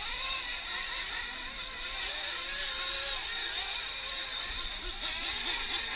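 Nitro RC truck engines running on the race track, several high-pitched engine notes rising and falling as the trucks throttle up and brake.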